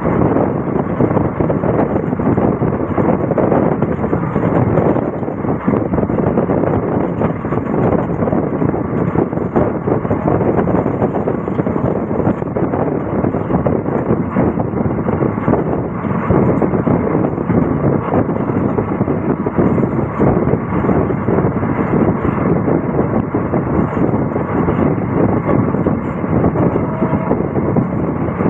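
Passenger train running at speed, heard from an open coach window: a loud, steady rumble and rattle of the wheels on the track.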